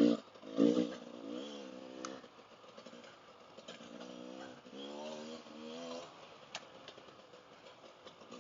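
Dual-sport motorcycle engine revving up and down, with two loud bursts of throttle at the start, then a run of rising and falling revs that drops away after about six seconds.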